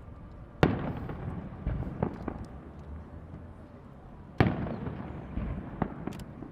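Fireworks shells bursting overhead: two loud sharp bangs about four seconds apart, each trailing off in a rolling echo, with several smaller cracks between and after.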